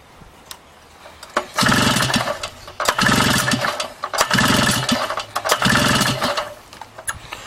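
Snowmobile engine being cranked about four times in a row, each try lasting about a second, without catching. It fails to fire because a coil wire has snapped off inside the ignition coil.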